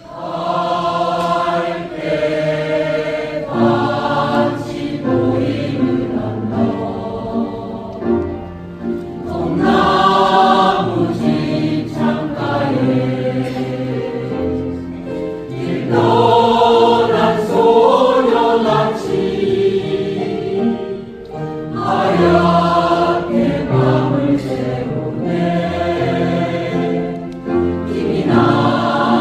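Buddhist temple choir singing a Korean song in harmony, coming in loudly at the very start in long sung phrases.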